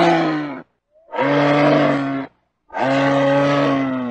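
Camel bellowing: a series of low, steady-pitched calls, each about a second long, with short pauses between them. One call ends early on, another follows, and a longer one runs on near the end.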